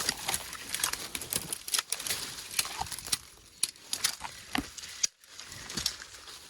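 Dry gorse twigs and brush crackling and snapping in rapid, irregular cracks as someone pushes through dense scrub on foot, with a brief break about five seconds in.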